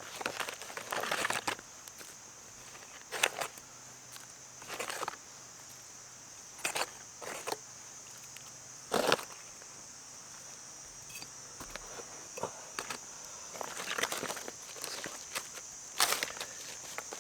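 Irregular crunches and knocks, about a dozen scattered through, over a steady high-pitched insect drone.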